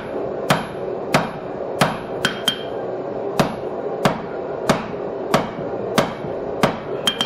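Hand hammer striking hot steel on an anvil in a steady rhythm of about three blows every two seconds, each blow with a short metallic ring. A couple of quick light taps fall between blows, over a steady background noise. The steel is being drawn down and tapered while forging a bottom fuller.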